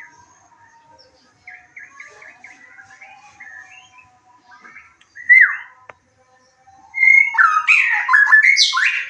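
White-rumped shama singing. It runs through faint varied phrases, gives one loud whistled note about five seconds in, then a loud rich run of varied whistles and trills from about seven seconds on.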